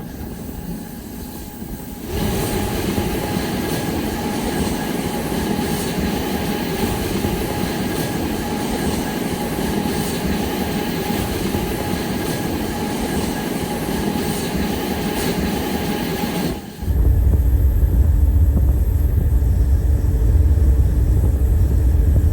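Train running along the rails: a steady rolling noise with a faint steady whine, which steps up in level about two seconds in and changes abruptly near the end to a heavy, deep rumble.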